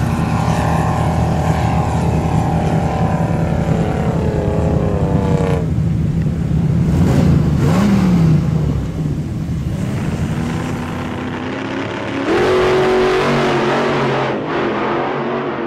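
Off-road SUV engines revving hard under load while climbing a steep sand dune, the pitch sagging and rising with the throttle. A fresh burst of revving comes about twelve seconds in, then fades out.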